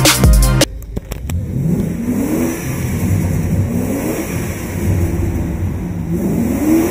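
Music stops less than a second in. Then a Range Rover's engine runs and is revved about three times, each rev rising in pitch and dropping back to idle.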